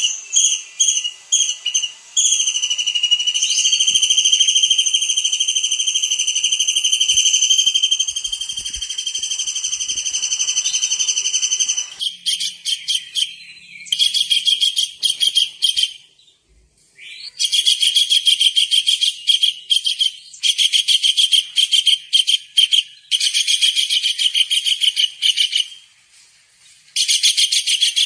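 Tengkek udang (small kingfisher) calling with shrill, high whistles. A few quick notes lead into one long held whistle of about ten seconds, followed by rapid rattling trills in bursts of two to three seconds with short pauses between them.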